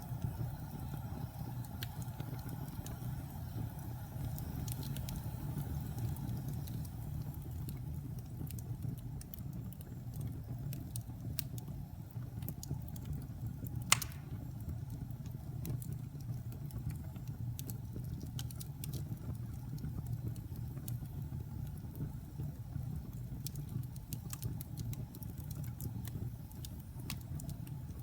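Wood fire burning in a fireplace: a steady low rumble of flames with scattered small crackles and one sharp, loud pop about halfway through.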